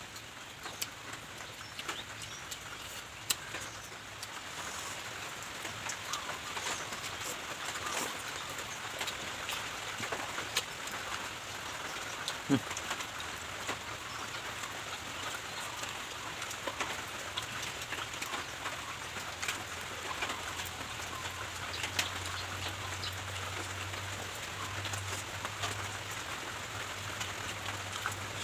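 Light rain falling steadily, with individual drops ticking sharply on surfaces. A low steady hum joins in about three quarters of the way through.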